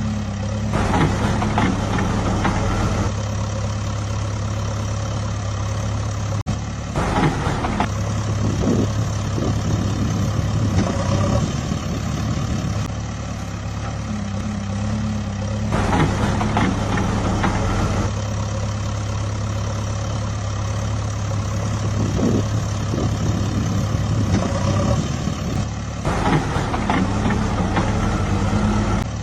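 Heavy vehicle engine running at idle as a steady low hum, with rougher, louder stretches every few seconds. The same pattern comes round about every 13 seconds, like a looped sound effect.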